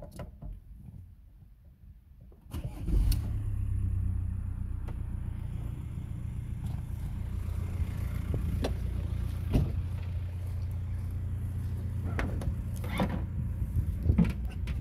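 Audi A4 B6's 1.9 TDI (AVB) four-cylinder turbodiesel starting about two and a half seconds in, then idling steadily, with a few sharp clicks over it in the second half.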